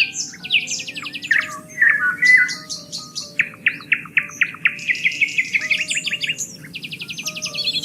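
Songbirds singing, with rapid repeated chirping trills from several birds overlapping, over soft held background music notes. The birdsong stops abruptly near the end.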